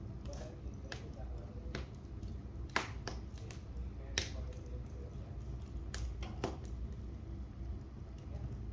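Wood fire crackling in a fireplace: irregular sharp pops and snaps over a steady low rumble, with two louder pops about three and four seconds in.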